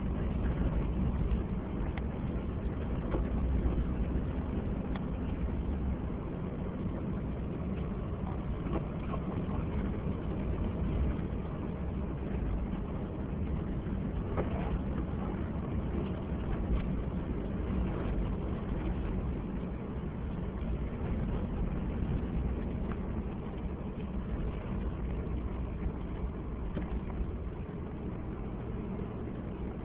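A car being driven on a snowy road: a steady, low rumble of engine and tyres.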